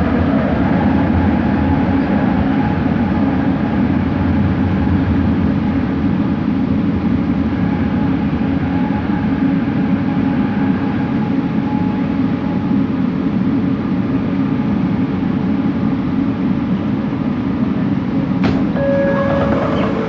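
Bombardier Innovia ART 200 metro train running, heard from inside the car: a steady rumble of wheels and running gear with a faint whine that fades about twelve seconds in. Near the end there is a sharp click followed by a short tone.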